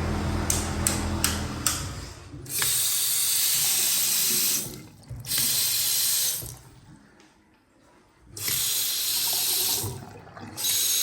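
Water running from a sink tap, turned on and off: four separate runs of one to two seconds each with quiet gaps between. Before the first run come a few sharp clicks and a low hum that stops about two seconds in.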